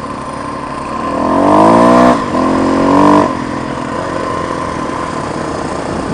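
Motorcycle engine accelerating: the pitch rises, drops briefly about two seconds in as it shifts up, rises again, then falls back to a steady cruise.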